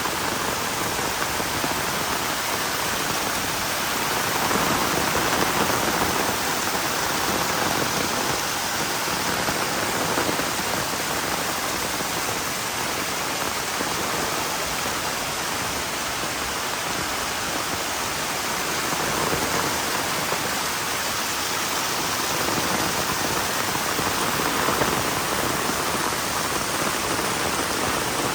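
Heavy rain falling steadily: a dense, even hiss that swells slightly a few times.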